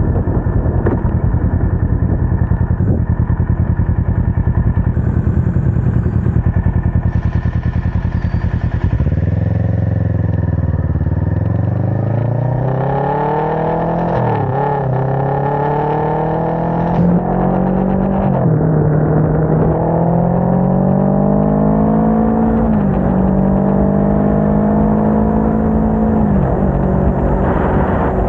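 Sport motorcycle engine cruising with wind noise on the microphone, then pulling away and accelerating hard: its pitch climbs and drops back about four times as the rider shifts up through the gears.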